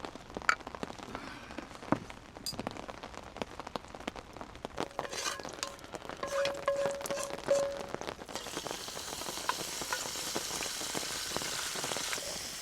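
Campfire and rain sounds: scattered sharp crackles and drips, a brief thin whistle midway, then a steady sizzling hiss from about eight seconds in.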